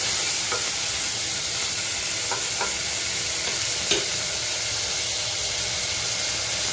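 Chicken pieces frying in hot oil in a pan: a steady sizzle, with a few light clicks of a utensil moving them about.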